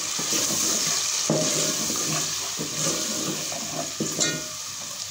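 Tomato and spice masala sizzling in hot oil in a metal pot, a steady frying hiss, while a spoon stirs and scrapes through it in repeated strokes. This is the bhuna stage, frying the tomatoes until they break down.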